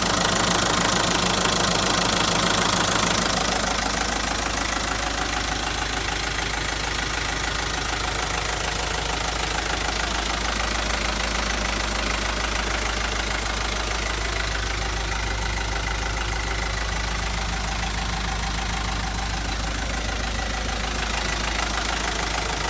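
Mitsubishi Rosa bus's 4D35 four-cylinder diesel engine idling steadily, slightly louder for the first few seconds.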